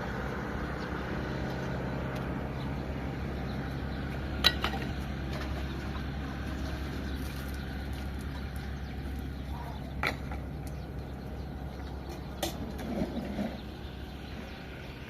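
An engine running steadily at idle, with a few sharp knocks about four, ten and twelve seconds in.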